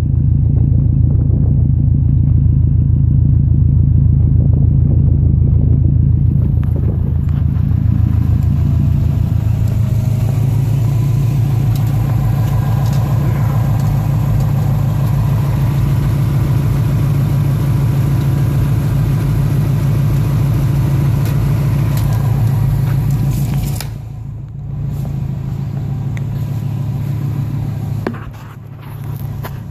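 Subaru Impreza's flat-four engine idling steadily with a low rumble. About 24 seconds in it becomes quieter and uneven.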